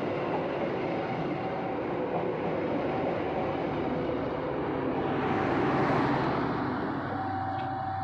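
Passenger train coaches passing close by, their wheels rumbling along the rails. The sound swells as the last coach goes past, about six seconds in, then falls away as the train moves off.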